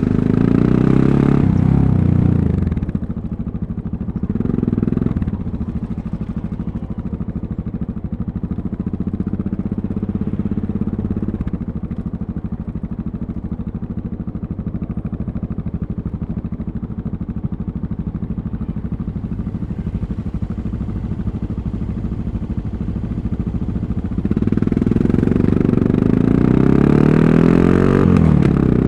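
Yamaha MT-03's 660 cc single-cylinder engine pulling hard at first, then easing off, with a short rev near the five-second mark. It then runs steadily at low revs for most of the stretch, and accelerates again about 24 seconds in, its pitch rising and dropping at a gear change near the end.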